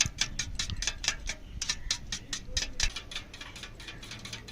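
Four raw eggs being beaten in a bowl with a utensil: a fast, even clicking of the utensil against the bowl, about five strokes a second.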